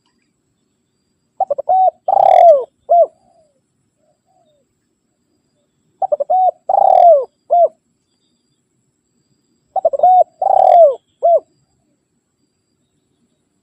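Spotted dove (tekukur) cooing, a rival-calling song: the same phrase three times, about four seconds apart. Each phrase is a few short coos, a longer, louder coo that falls in pitch, and a short closing coo.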